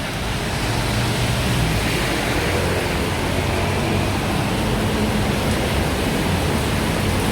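Steady rush of water from cars driving through a flooded street, with low engine hum underneath.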